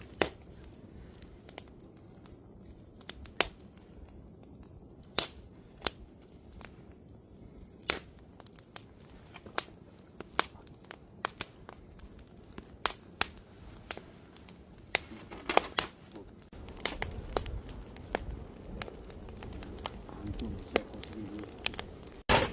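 Wood campfire crackling, with sharp pops and snaps at irregular intervals over a faint steady hiss. A low rumble swells for a few seconds near the end.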